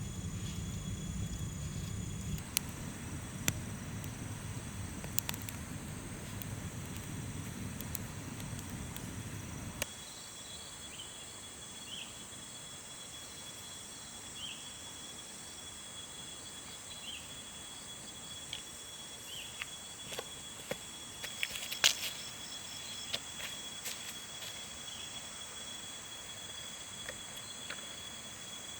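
Insects droning steadily on a high, even pitch, with scattered sharp clicks and snaps, the loudest about two-thirds of the way through. A low rumble underneath stops abruptly about a third of the way in.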